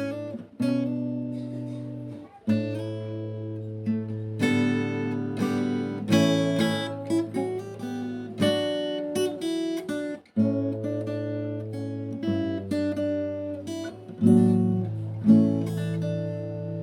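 Background music played on acoustic guitar: strummed and plucked chords with sustained ringing notes, a brief break about half a second in and another about ten seconds in.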